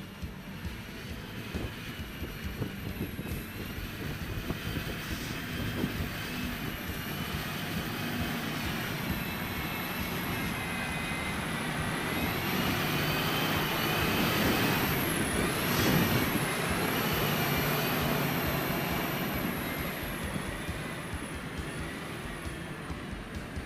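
Rheinmetall MAN HX 6x6 truck's diesel engine working under load, with a high whine over it. It grows louder toward the middle, with a sharp knock there, then eases off near the end.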